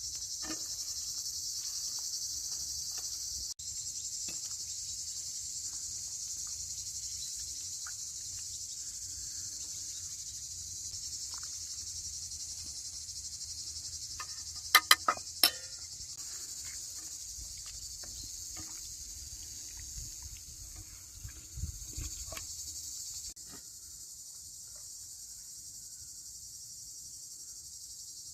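Steady high-pitched chirring of crickets, with a quick run of about four sharp clicks about halfway through.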